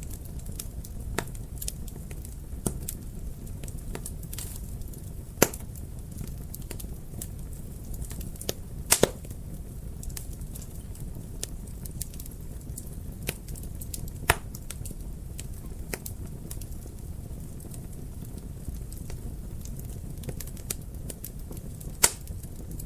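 Wood fire crackling in a fireplace: a steady low rumble of burning with scattered sharp pops and snaps, the loudest about 5, 9, 14 and 22 seconds in.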